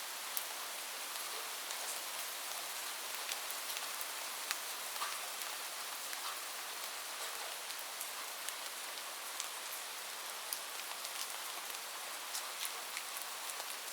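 Steady rain falling on a roof, an even hiss with many single drops ticking sharply and irregularly on top.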